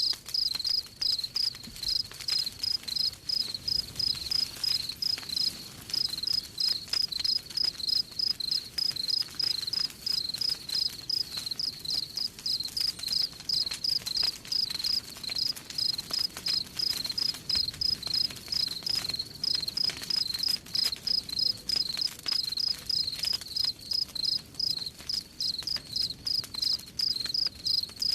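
Crickets chirping in a steady, even rhythm, about two to three chirps a second, over the faint snapping of a crackling campfire.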